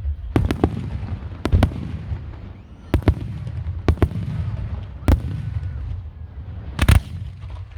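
Aerial fireworks shells bursting in a public display: about eight sharp bangs at uneven intervals, a few in quick pairs, over a continuous low rumble.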